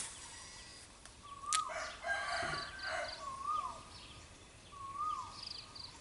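A rooster crows once, from about two seconds in to about three seconds in. Throughout, a bird repeats a short rising-and-falling whistled note about every second and a half. There are two sharp clicks, one at the start and one about a second and a half in.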